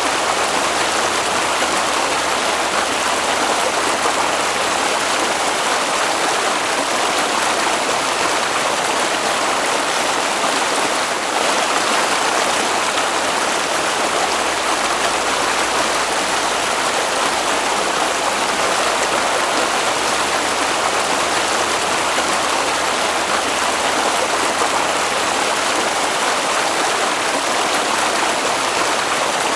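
Stream water running steadily, a continuous even splash and burble with no breaks.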